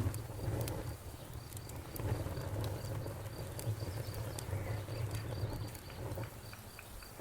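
Campfire crackling with scattered small pops over a low steady rumble, while an insect chirps in a steady, evenly repeating pulse.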